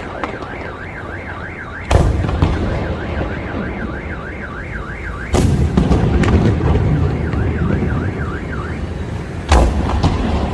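Fireworks shells bursting with three loud booms and rumble, about two seconds, five and a half seconds and nine and a half seconds in. Through it a car alarm warbles, its pitch going rapidly up and down, and it stops shortly before the last boom.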